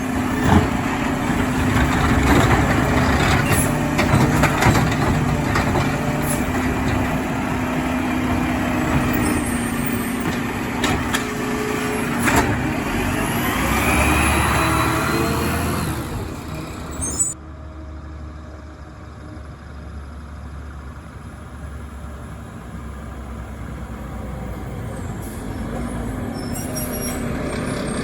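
Mack LR garbage truck with a McNeilus ZR automated side loader working: the truck's engine running under load, with several sharp knocks and clanks and a short rising whine. About two-thirds of the way through the sound drops suddenly to a quieter low engine rumble that slowly grows louder.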